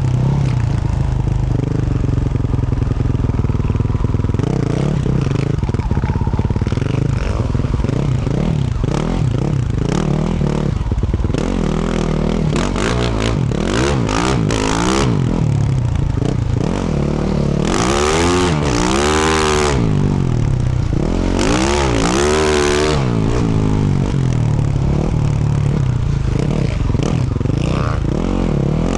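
2024 Yamaha YZ450F's 450 cc single-cylinder four-stroke engine, fitted with a Yoshimura RS-12 exhaust, running under way with the revs rising and falling as the throttle is worked. Two hard rev-ups come about two-thirds of the way through.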